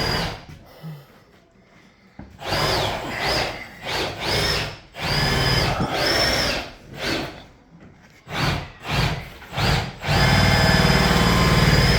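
Power drill run in repeated short trigger bursts, each spinning up to a steady high whine and stopping, with one longer run near the end.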